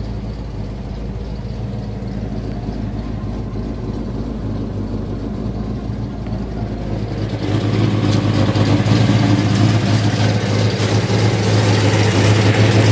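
1970 Chevelle SS454's LS5 454 big-block V8 idling steadily. It is heard from inside the cabin at first, then louder and fuller from a little past halfway.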